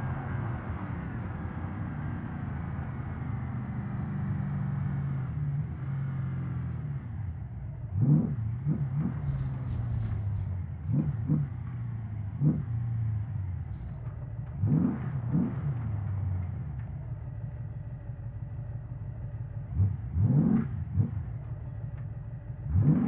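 Porsche Cayenne Turbo S twin-turbo V8 heard from inside the cabin: the engine runs steadily with its pitch easing down, then gives a series of short, sharp revs that rise and drop quickly, several in quick pairs. A few brief clicks come in the middle.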